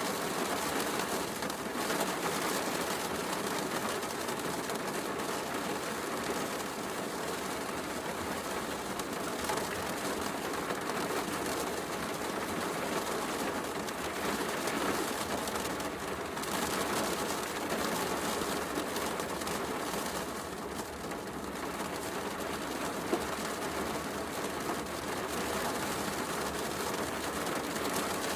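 Heavy rain falling steadily, a continuous hiss, mixed with the small crackles and pops of a wood fire burning in a fireplace; one sharper pop about 23 seconds in.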